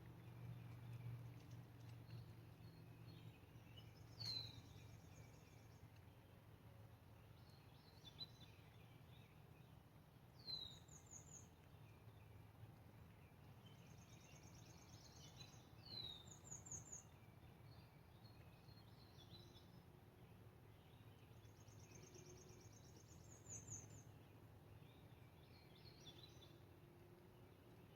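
Faint songbird singing in repeated phrases, each a short falling whistle followed by a fast high trill, coming back about every six seconds over a steady low hum.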